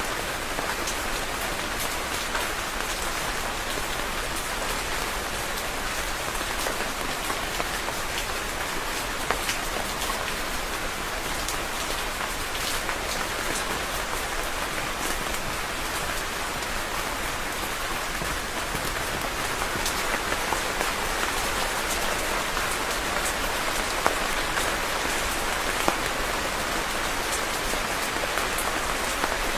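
Steady rain falling on a surface, a dense even hiss full of fine drop ticks, with a few louder single drops now and then.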